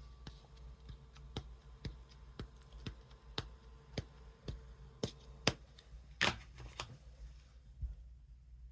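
Light taps on a craft table, about two a second, as an ink pad is dabbed onto a rubber stamp, with one louder knock about six seconds in.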